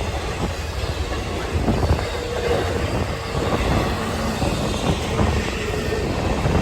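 Freight train passing, its cars and wheels rumbling and clicking over the rails.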